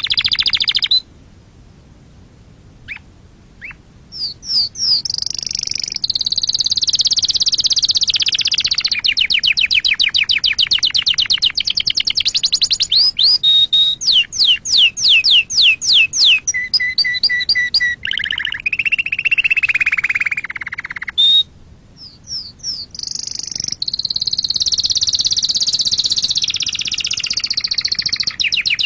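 Domestic canary singing a long song of fast trills and rapidly repeated chirps, with sweeping notes and a lower warble in the middle; the song drops out for a few seconds near the start and again briefly past the middle before resuming.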